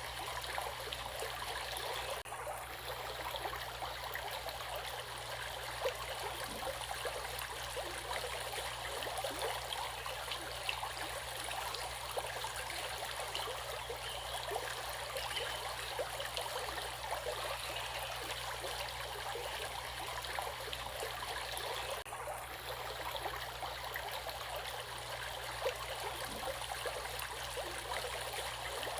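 Water flowing steadily in a stream, a constant patter of small splashes and trickles.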